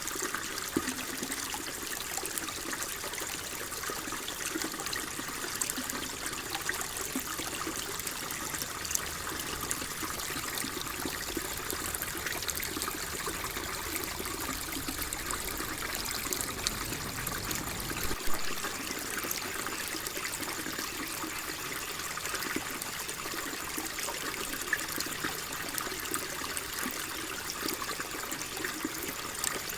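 Water flowing and trickling steadily, like a small stream, with many small splashes and drips. A faint low rumble underneath cuts off abruptly a little past the middle.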